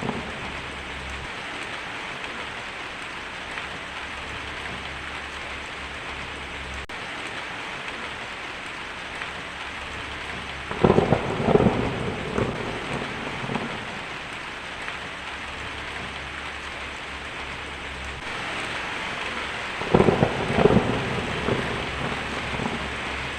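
Heavy rain drumming steadily on a tin roof, with thunder rumbling twice, about eleven seconds in and again near the end.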